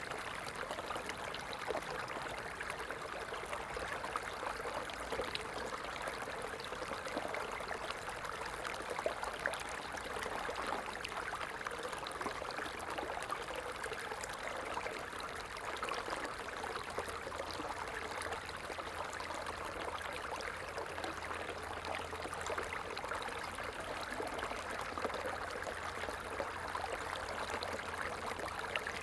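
A small stream flowing steadily, the water trickling and splashing over stones in a constant wash of sound.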